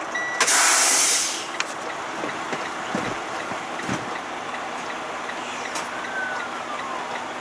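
Inside a semi-truck cab: a loud burst of hissing air from the truck's air-brake system lasts about a second, starting about half a second in, over steady cab and engine noise, with the turn signal ticking faintly about twice a second.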